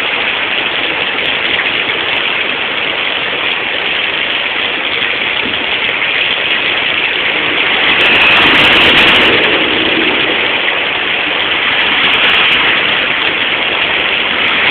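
Heavy rain falling on a street with runoff water rushing along it, a steady hiss that swells louder for a couple of seconds about eight seconds in.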